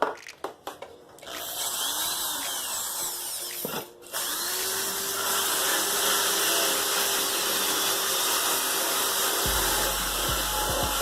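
Handheld power tool sanding rust off a car's metal radiator-fan shroud. After a few clicks it starts about a second in as a steady abrasive noise, stops briefly near four seconds, then runs on.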